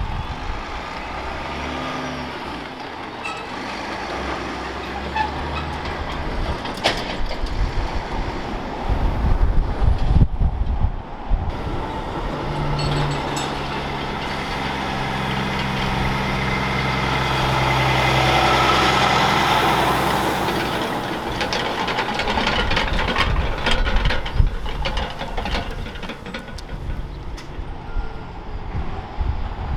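Heavy diesel trucks driving past, the engine sound swelling to a peak about two-thirds of the way through and then fading away.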